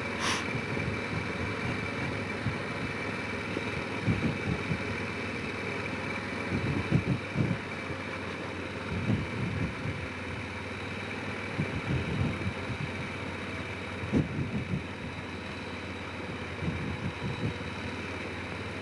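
Honda Rincon 650 quad's single-cylinder engine running steadily at low trail speed, with a faint high whine and irregular low thumps throughout. A short click comes right at the start.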